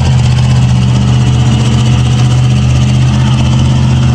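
A motor vehicle's engine running steadily at an even speed, its pitch holding constant.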